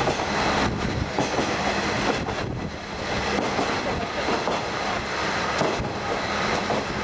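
Diesel trolley train, a converted KiHa 48 railcar, running along the track: a steady rumble of engine, wheels and wind, with wheels clicking over rail joints here and there.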